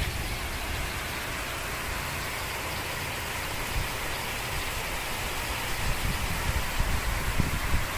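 Heavy tropical rain falling, a steady hiss, with low thumps of wind buffeting the microphone in the second half.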